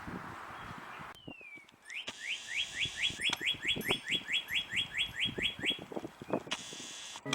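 A bird calling a fast series of rising whistled notes, about four a second, for around four seconds.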